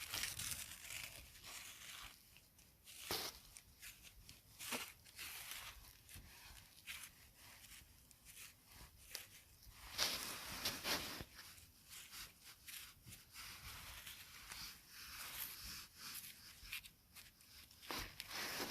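Close, quiet crackling and tearing with many irregular sharp clicks, denser around the middle and near the end.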